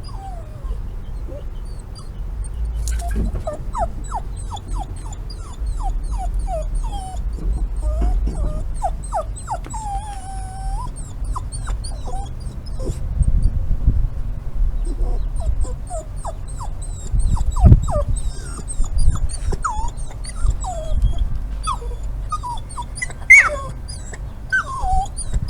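A dog whining and whimpering in many short high-pitched cries, a few sharper and louder ones near the end. Faint high chirping carries on behind.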